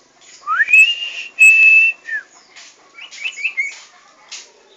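Two long, clear whistles, the first sliding up into a held high note and the second held steady before dropping off at its end, followed by a quick run of short chirps about a second later.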